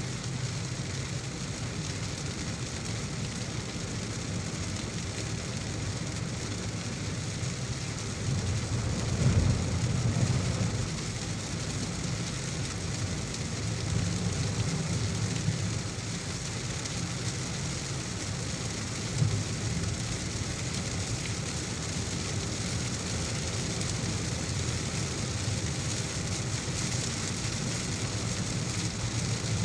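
Heavy rain and the steady low rumble of a car driving on a wet road. About eight seconds in, a louder low rumble swells for a few seconds, and there is a brief knock near the middle.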